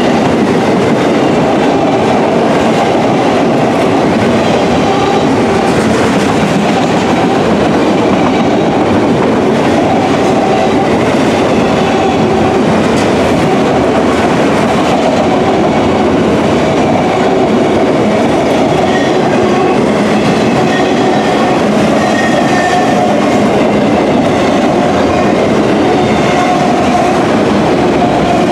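Loaded auto rack freight cars rolling past close by: a steady, loud rumble and clatter of steel wheels on the rails, with faint high tones coming and going.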